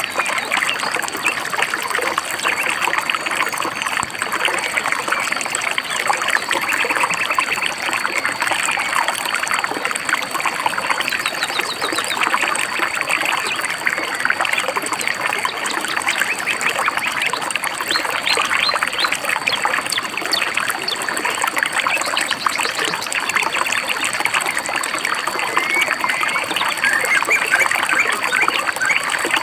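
A small river babbling and trickling over stones, steady throughout, with a few brief bird chirps above it.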